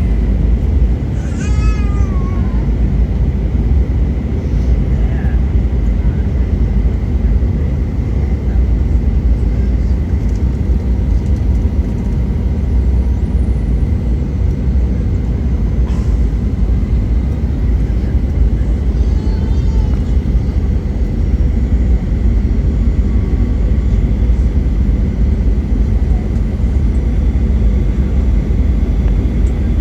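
Steady cabin noise inside a Boeing 737 airliner: the low rumble of its engines and rushing air, with a faint steady high tone running through it. Two short, high, wavering cries rise over it, about a second and a half in and again near the twenty-second mark.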